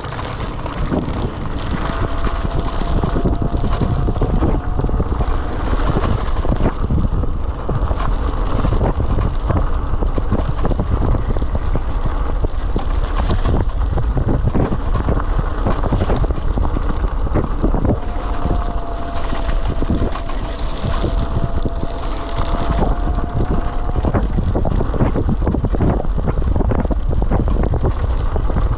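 Wind buffeting the microphone in a steady low rumble while riding an electric bike, with frequent small knocks and rattles from the bike over the surface. A faint thin whine comes in twice, rising slightly.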